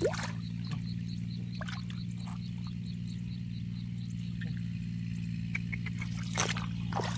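A frog calling in a fast series of short high chirps, about four a second, that stops about halfway through. Underneath runs a steady low hum, with a few brief water splashes and clicks.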